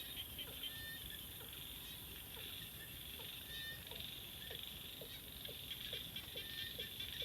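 A rainy-season night chorus of frogs and insects: short falling croaks repeat about twice a second over a fast, even, high chirring, with a low steady noise underneath.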